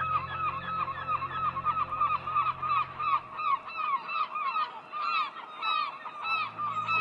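A large flock of birds calling over one another: many short arched calls in quick succession.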